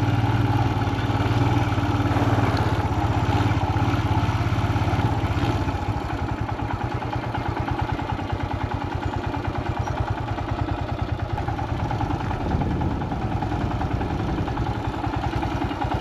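Royal Enfield Himalayan's single-cylinder motorcycle engine running steadily on the move, easing off slightly about six seconds in.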